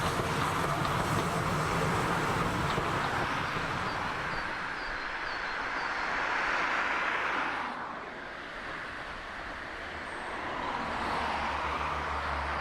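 A train rolling past on the track: a steady rumbling rush of wheels and carriages that drops away sharply about eight seconds in, then builds again near the end with a low hum.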